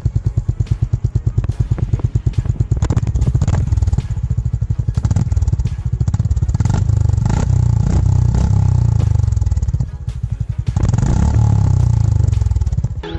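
Honda GB350's air-cooled single-cylinder engine running, its exhaust a steady, rapid train of low thumps. The level dips briefly about ten seconds in, then picks up again.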